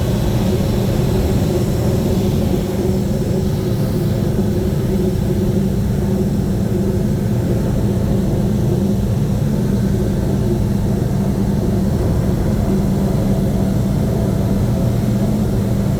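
Boeing B-29 Superfortress's four Wright R-3350 radial piston engines and propellers droning steadily.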